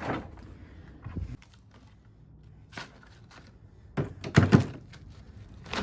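Scattered metal clunks and knocks of heavy scrap copper winding being handled and dropped, with the loudest cluster of thunks about four seconds in.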